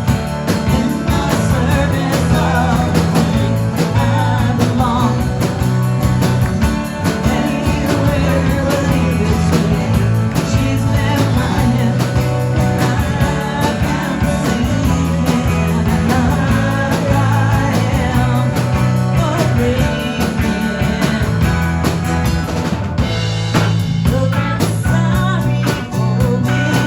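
Live rock band playing a song: a singer's vocals over drum kit and electric guitar, loud and continuous.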